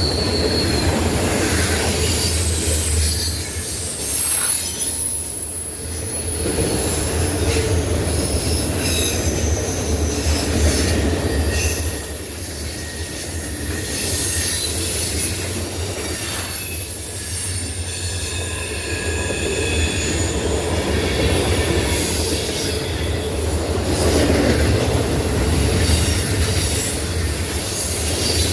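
Norfolk Southern freight train cars rolling past, their wheel flanges squealing in high, shifting tones over a steady rumble.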